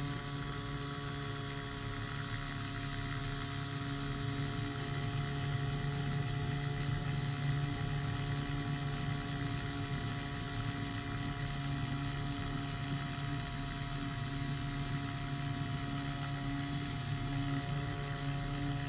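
Powered hang glider's single-cylinder engine and propeller running at a steady drone in flight, with wind noise. The engine is down on power: the pin holding its piston ring had melted into the piston groove.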